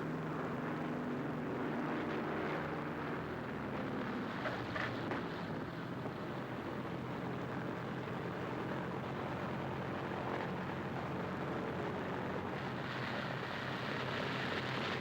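P-38 Lightning's twin engines droning steadily as the plane comes in to land, with a rushing noise that grows brighter near the end.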